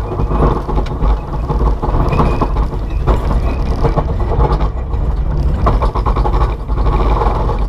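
Rally car engine running under load, heard from inside the cabin, with scattered knocks and rattles.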